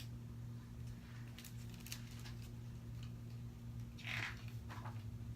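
Steady low electrical hum with faint clicks and a short paper rustle about four seconds in, as a picture book's page is handled and turned.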